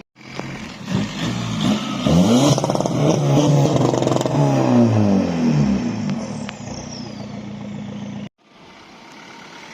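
Car engine revved hard several times, its pitch climbing and falling, then settling to a steady idle. The sound breaks off suddenly near the end and comes back quieter.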